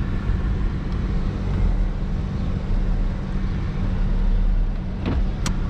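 Hyundai Genesis Coupe's 3.8-litre V6 running steadily at low revs, heard from inside the car. A few sharp clicks come near the end.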